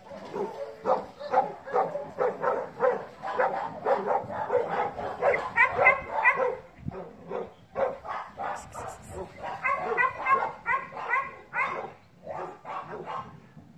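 Dog barking and yipping over and over, two to three short calls a second, without a pause.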